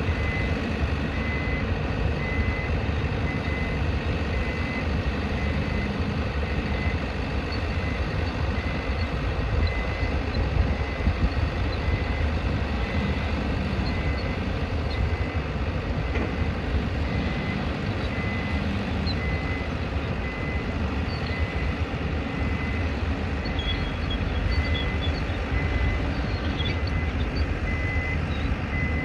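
Reversing alarm on a construction vehicle beeping at a steady pace, one high tone repeating throughout, over the low rumble of heavy engines and construction-site noise.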